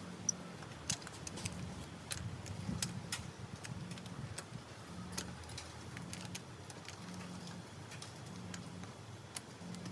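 Scattered light metallic clicks and clinks from hand tools being worked on a bare engine, coming at irregular intervals over a faint low hum.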